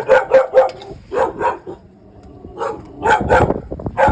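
A dog barking in quick strings of short barks. There is a rapid run of about four at the start, then a pair, a brief lull about halfway, and a few more near the end.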